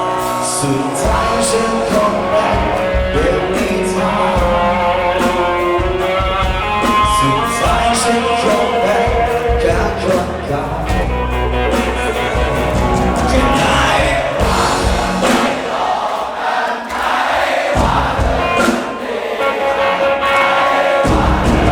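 Live band music with a singer, the drums keeping a steady beat, in a large echoing space; near the end the backing thins and the voices carry on over it.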